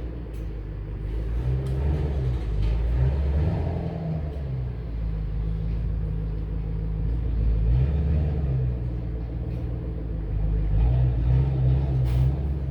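A low mechanical rumble, like an engine running, that swells and eases a few times.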